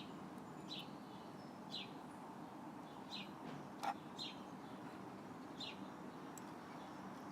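A bird chirping faintly, short quick downward notes repeated roughly once a second, over low steady room noise. A single sharp click comes a little under four seconds in.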